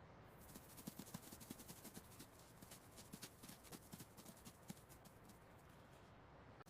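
Faint, quick, irregular clicking and scratching of a mouse scurrying, several ticks a second.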